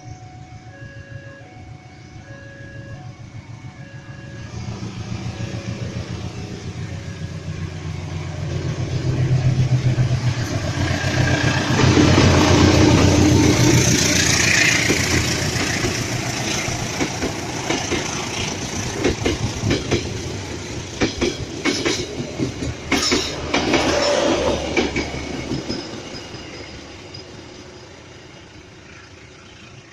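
Diesel-hauled passenger train passing. The locomotive's engine rumble builds over the first dozen seconds, then a quick run of wheel clicks over rail joints as the carriages go by, and the sound fades near the end. A repeating warning chime sounds in the first few seconds.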